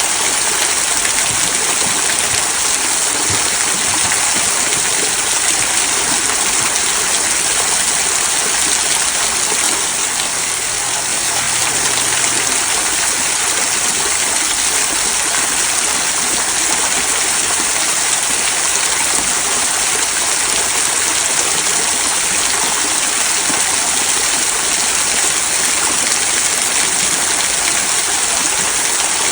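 Small rock waterfall trickling and splashing down stones into a stream: a steady, even rush of water.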